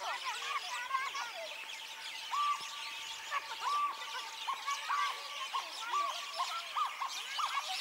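A dense chorus of many birds chirping and calling at once, with one clearer call repeating about once a second from about two seconds in.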